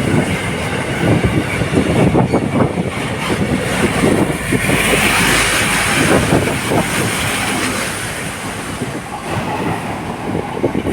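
Container freight train rolling past at speed, its wheels clattering over the rail joints in a continuous irregular run of knocks, with a brief squeal of wheels swelling around the middle.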